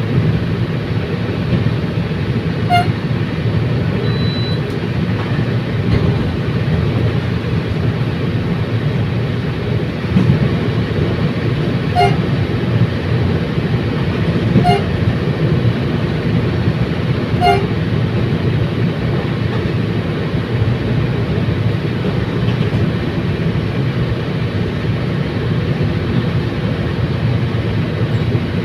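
Commuter train running with a steady rumble, with four short high toots scattered through.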